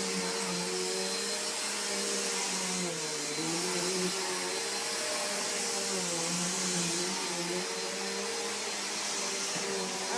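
A steady motor hum from an electric appliance, its pitch wavering gently.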